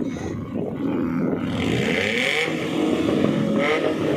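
Car engines revving at a show, several engine notes rising and falling over one another, with a brief hiss about two seconds in.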